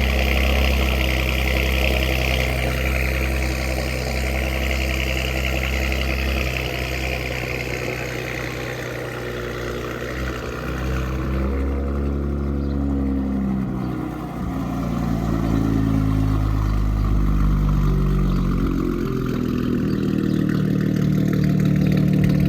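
Audi RS5's 2.9-litre twin-turbo V6 idling on a cold start through catless downpipes and a muffled cat-back exhaust. The idle note shifts and its higher part fades about halfway through, as the engine comes out of open-loop cold-start mode and tones down.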